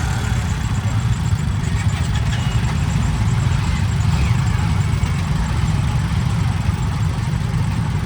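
Steady low vehicle engine rumble, with a few faint short high tones.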